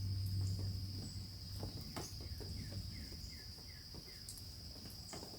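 A steady, high-pitched insect chorus. About two seconds in, a bird gives a quick series of five short, falling chirps.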